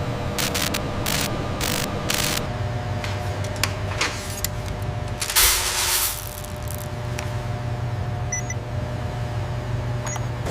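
Factory machinery ambience: a steady low machine hum, with a quick run of short hisses in the first two seconds and a louder hiss about five and a half seconds in.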